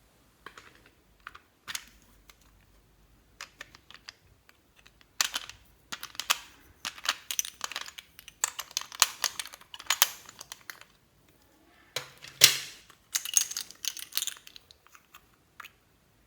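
Slime being worked by hand, a run of sticky clicks and crackling pops in irregular clusters, with the loudest pop about twelve seconds in.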